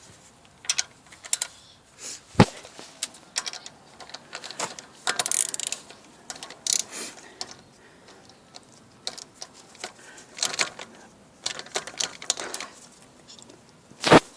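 Irregular metallic clicking and clattering of a ratchet and socket working on car wheel nuts, with a sharp knock about two seconds in and another near the end.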